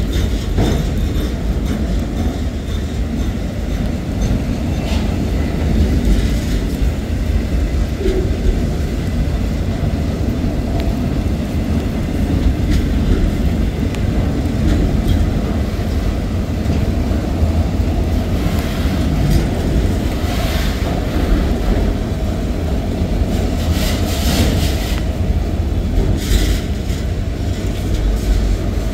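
Freight train of autorack cars rolling past at close range: a steady heavy low rumble of the wheels, with sharp clicks of wheels over rail joints and, in the second half, brief stretches of higher-pitched wheel noise.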